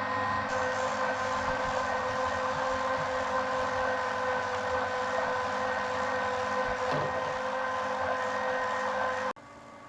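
A small electric motor running steadily with a whine, cutting off suddenly about nine seconds in.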